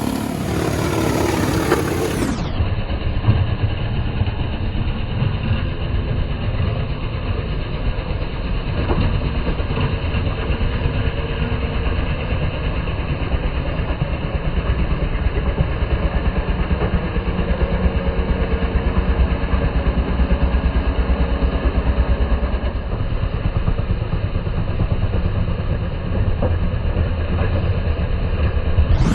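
John Deere 2038R compact tractor's three-cylinder diesel engine running steadily under load with a continuous low rumble, its sound duller from about two seconds in until just before the end.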